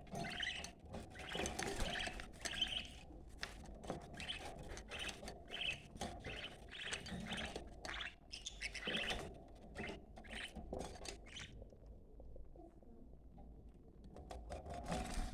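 Budgerigars chirping in quick, busy chatter that stops about eleven seconds in, leaving only a low background hum.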